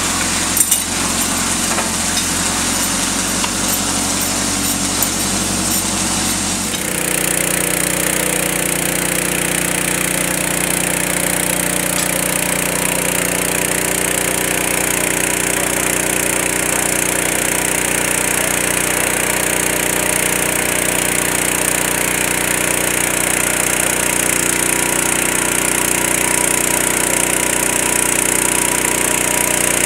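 An engine running steadily; about seven seconds in its note shifts abruptly and it settles at a new steady speed. A couple of sharp clicks come near the start.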